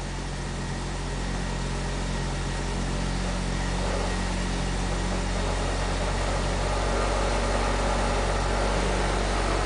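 The cold Green Diamond 214 cubic-inch six of a 1947 International Harvester KB-1 is idling steadily and slowly growing a little louder. It is still running below the speed at which its alternator begins to charge, with the charging light on.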